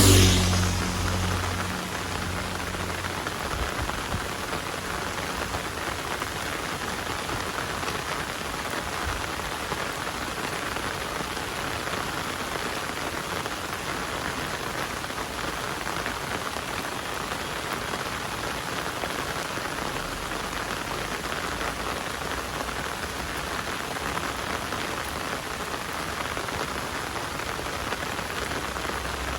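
Heavy rain falling steadily, an even hiss. At the start, the low hum of a passing engine fades away within the first couple of seconds.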